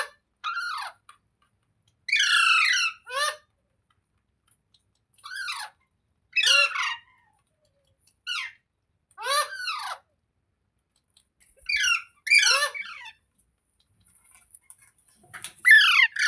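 A parrot giving short squawking calls, each sliding down in pitch, about a dozen of them with gaps of one to two seconds between.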